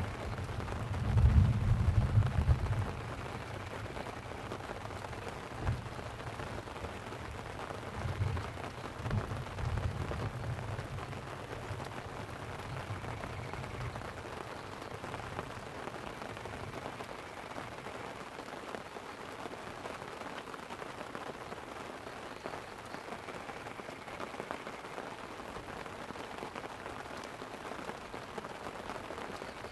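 Steady hiss of light rain falling on a tent, with low rolling thunder rumbling underneath. The thunder is loudest about one to three seconds in, swells again a few times, and dies away about halfway through, leaving only the rain.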